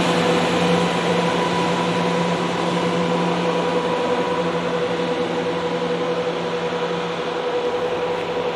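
Diesel multiple unit pulling away, its engines running with a steady hum and a steady whine, slowly fading as the train draws off.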